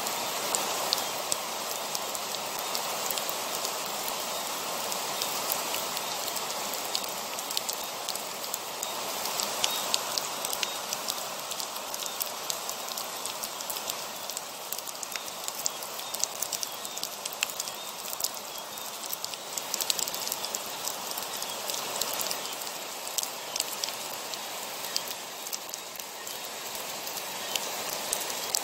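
Heavy rain falling steadily: a dense, even hiss with many sharp individual drop ticks scattered through it.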